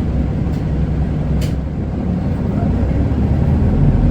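Isuzu Erga city bus's four-cylinder diesel engine and road noise heard from inside the cabin while it drives, a steady low drone that grows slightly louder near the end, with a couple of brief clicks from the cabin.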